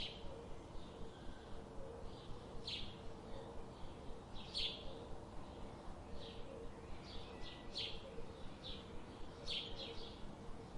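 Birds chirping: short high chirps, one every second or so, over a steady low background noise with a faint steady hum.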